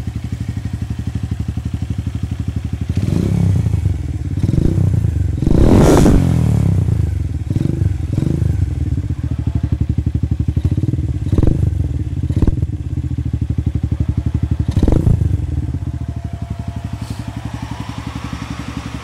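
Megelli 125M motorcycle engine with a new exhaust, its silencer not fully open, idling and then blipped repeatedly: about eight short revs, the highest about six seconds in, before dropping back to a steady idle.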